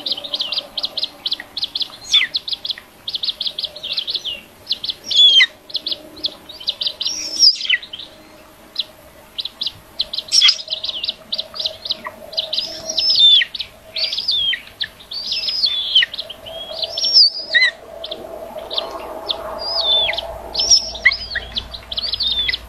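High-pitched bird chirping: quick runs of short chirps, about five or six a second, broken by short whistles that slide downward, going on throughout.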